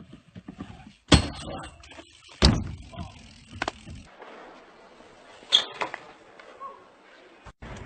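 Three sharp knocks or thuds, a little over a second apart at first and then a longer gap before the third, over a faint background hiss.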